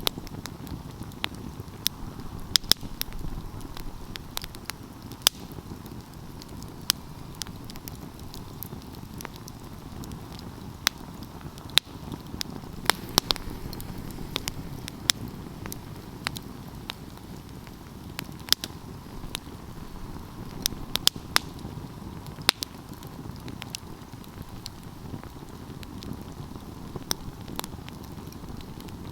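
Wood fire burning steadily with a low rushing flame sound, broken by sharp irregular crackles and pops from the burning wood.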